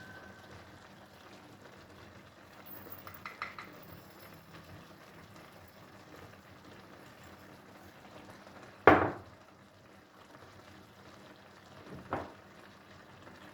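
A few sharp clinks of dishes or cups being handled and set down on a hard surface over a faint steady hiss: a quick double clink about three and a half seconds in, a loud one about nine seconds in, and a lighter one near the end.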